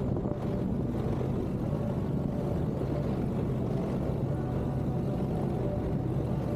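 CFMoto 650 parallel-twin motorcycle engine running steadily while riding, a low drone that holds an even pitch.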